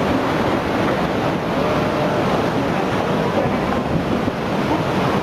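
Steady rush of floodwater, with wind buffeting the microphone.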